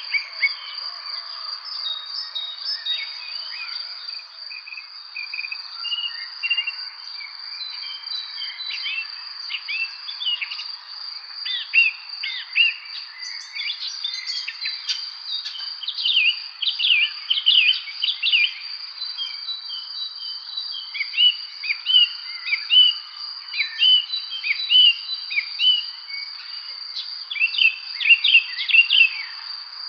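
Evening chorus of songbirds chirping and singing in many short, quick phrases that grow busier partway through, over a steady, unbroken high-pitched insect trill.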